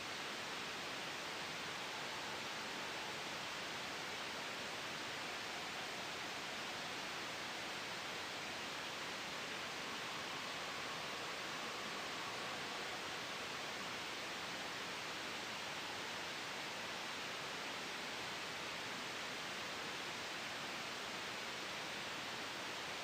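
Steady soft white noise blended with a gentle wind ambience: an even, unchanging hiss, strongest in the upper middle range.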